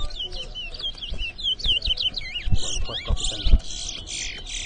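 Towa-towa (large-billed seed finch) singing in a song race: a rapid run of quick, swooping whistled chirps. A few dull low thumps come through around the middle.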